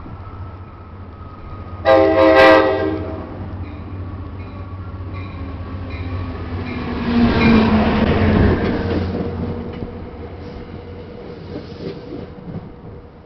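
NJ Transit F40PH-2CAT diesel locomotive sounding one short blast on its K5LA horn about two seconds in. The locomotive's 16-cylinder EMD engine then passes close by, loudest around the middle. Comet coaches roll past after it with light wheel clicks.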